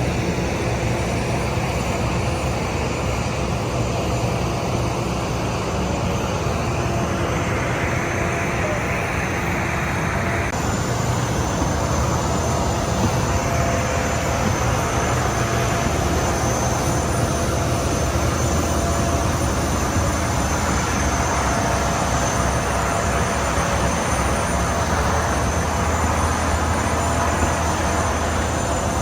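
Aircraft engine noise, a loud steady rush with a thin whine and low rumble, changing abruptly about ten seconds in.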